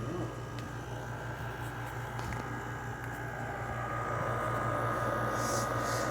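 LG 6000 BTU window air conditioner running steadily, its compressor humming under the fan's airflow. A steady high tone grows stronger about two-thirds of the way in.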